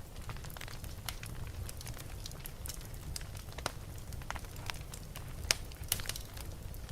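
Wood fire burning in a fireplace: a steady low rumble of flames with frequent irregular crackles and pops, the sharpest pops a little over five seconds in and again about a second later.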